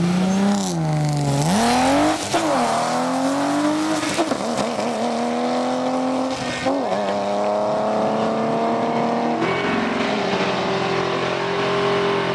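Drag race car on nitrous accelerating hard down the strip, engine pitch climbing and then dropping sharply at each of several gear changes before settling to a steady note near the end.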